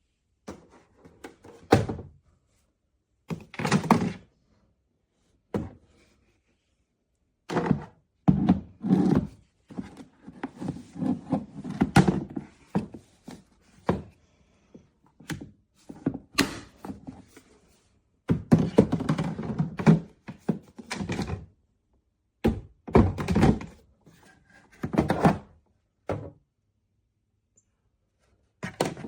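Irregular thuds and knocks in uneven clusters, with short pauses of quiet between them, like objects being handled and set down.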